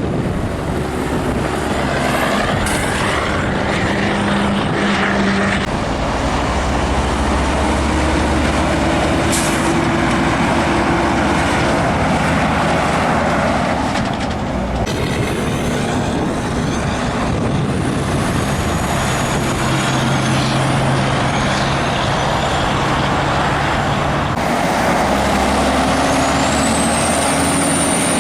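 Heavy trucks passing one after another on a highway: a steady rush of tyre and engine noise, with engine drones swelling and fading as each rig goes by. Near the end a high whistle rises and then falls.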